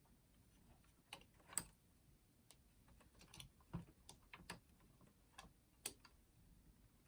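Faint, irregular plastic clicks and taps as fingers pull back the two retaining clips on a Sony CFD-454 boombox's cassette mechanism.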